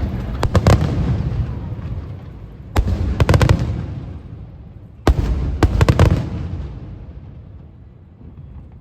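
Aerial firework shells bursting overhead in three volleys about two and a half seconds apart, each a sharp boom followed by a quick string of cracks, with a low rumble echoing away after each.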